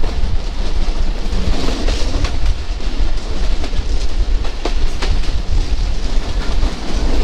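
Local passenger train running, heard from aboard: a loud, steady rumble with now and then a sharp clack of the wheels over the rail joints.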